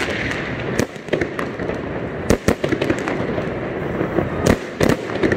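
Aerial fireworks going off: a string of sharp bangs and pops as shells burst overhead, the loudest a little after four seconds in.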